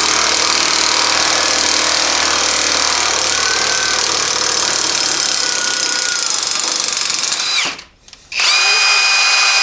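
Loud power tool, most likely an impact wrench on the transfer case's large nut, running in two long bursts. The first burst winds down with a falling pitch just before eight seconds in, and the second starts about half a second later.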